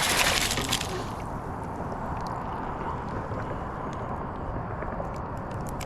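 Steady rush of moving river water around a kayak, after a short hiss in the first second. A few faint ticks sound over it.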